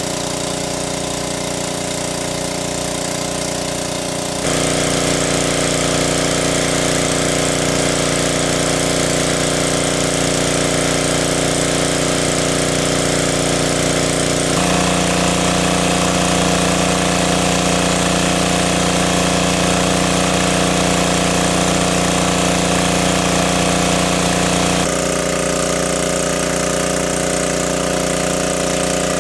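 A small engine running steadily at constant speed, its tone changing abruptly three times.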